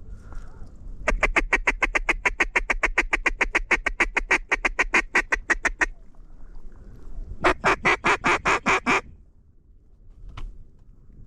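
Hand-blown mallard duck call in two runs of rapid, evenly paced quacks, about seven a second. The first run lasts about five seconds, starting about a second in. The second, shorter run comes about a second and a half later.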